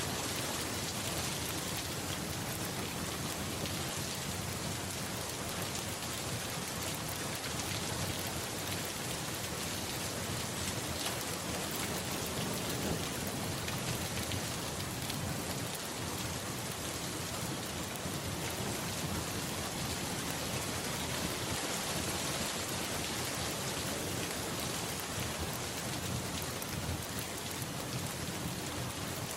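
Steady, even rain falling, with a low rumble of thunder.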